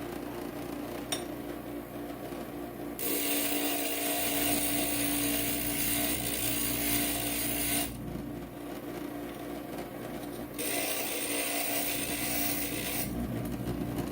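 Inland stained glass grinder's motor running steadily as a piece of stained glass is pressed against its diamond bit to take a little off the edge. There are two grinding passes: one from about three seconds in, lasting some five seconds, and a shorter one of two to three seconds near the end.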